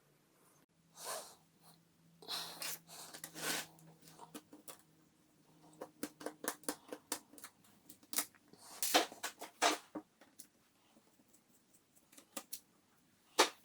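Laptop plastic parts being pried and handled: scattered sharp clicks and short scraping noises, busiest around the middle, with a faint steady hum underneath at the start.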